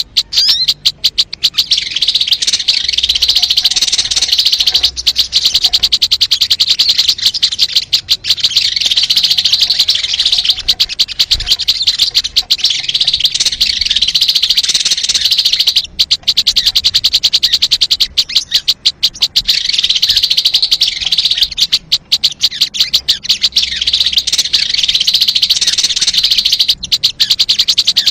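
Sogon bird calling: a loud, high-pitched, rapid chattering trill, repeated almost without pause with a few short breaks, played as a trapping lure call.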